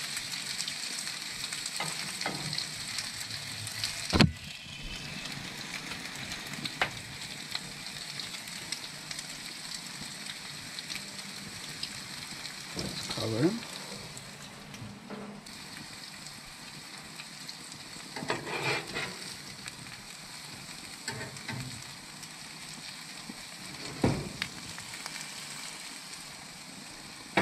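Mangrove snapper fish burger patties sizzling in a non-stick pan on a gas grill, a steady hiss that eases off after the first few seconds. A few sharp knocks sound over it, the loudest about four seconds in.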